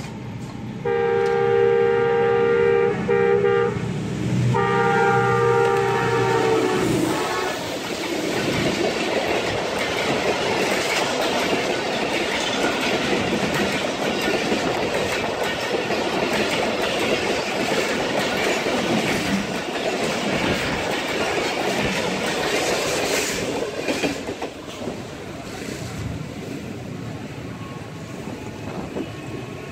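Pakistan Railways ZCU-20 diesel locomotive sounding its multi-tone horn in two long blasts of about three seconds each as it approaches. The locomotive and its passenger coaches then pass close by with steady wheel-on-rail noise, which drops away near the end as the train clears.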